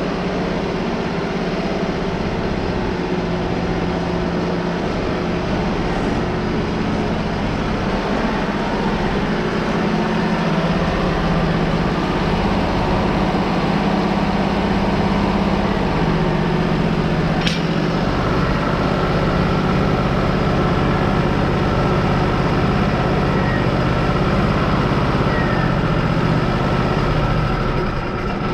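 Wood-Mizer LT35 sawmill engine running steadily while the saw head is driven along the track. A short sharp click comes about two-thirds in, and a higher steady whine joins just after.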